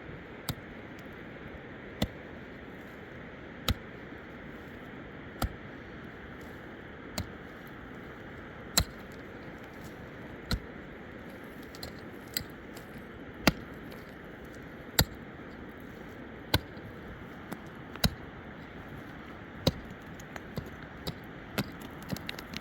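Sharp knocks at a fairly even pace, about one every one and a half to two seconds, coming faster and closer together near the end, over a steady background hiss.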